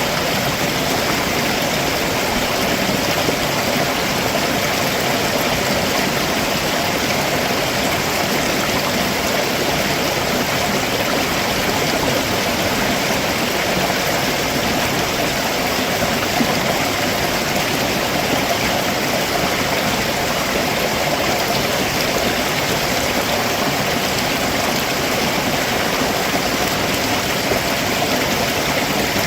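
A rocky stream rushing steadily over stones below a waterfall, an even, unbroken wash of water noise.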